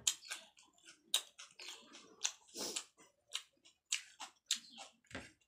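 Close-up mouth sounds of eating: wet chewing and lip smacks, several a second and irregular, as rice and curry are eaten by hand. Two duller knocks come at the start and about five seconds in.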